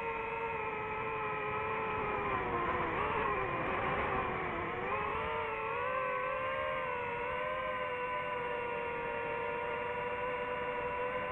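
DJI FPV drone's motors and propellers whining steadily. The pitch dips about three seconds in as the throttle eases, then climbs back and holds.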